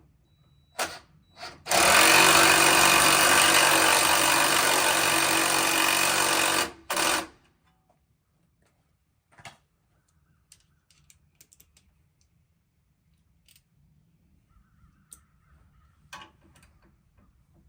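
Power tool run in two quick blips, then held on for about five seconds, then blipped once more, followed by a few faint clicks and clinks.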